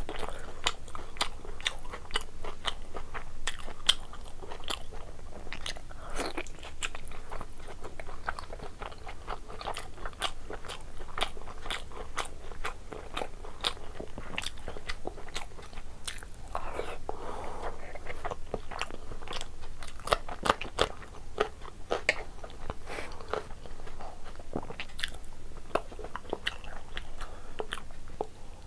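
Close-miked eating of curry and rice by hand: wet chewing and lip-smacking, with a quick run of sharp mouth clicks and crunches.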